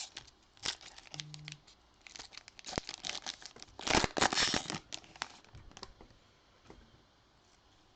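A wrapper on a Topps baseball card pack being torn open and crinkled, in a run of crackling that is loudest about four seconds in.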